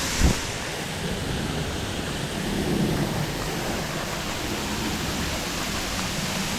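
Steady rushing of a small waterfall, with a single short low thump just after the start.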